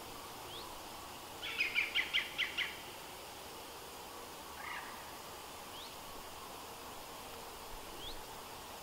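A bird calling: a quick run of about seven high notes, then a single short call a couple of seconds later, with faint brief rising chirps now and then over a steady background hiss.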